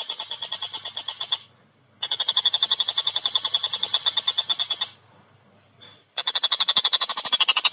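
Tengkek buto kingfisher calling in a fast, rattling series of sharp repeated notes, many per second. Three long runs broken by brief pauses, the last sliding lower in pitch near the end.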